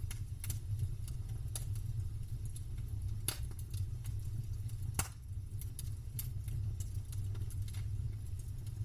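Wood campfire crackling: scattered small crackles and sharper pops, the two loudest about three and five seconds in, over a steady low rumble.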